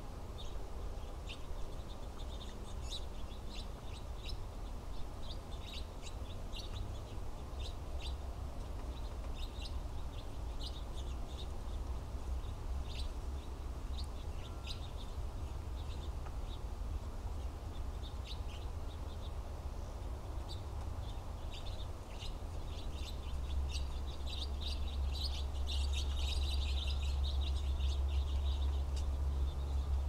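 Small songbirds giving many short, high chirps, scattered throughout and busiest near the end, over a steady low rumble that grows louder near the end.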